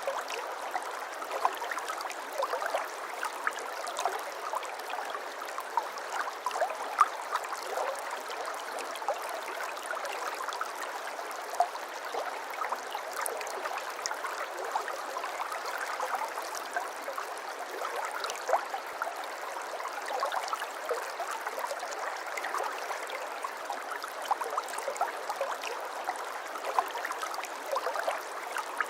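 Water flowing steadily in a small stream, trickling and babbling with many little splashes and gurgles. There is no deep rumble.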